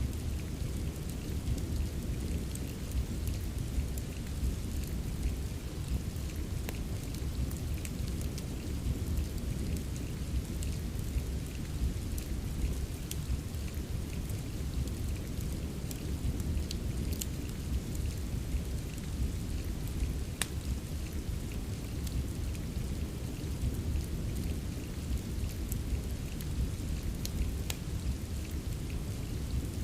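Steady rain ambience mixed with a fireplace: an even hiss of rain over a deep, constant rumble, with sharp crackles from the fire scattered irregularly throughout.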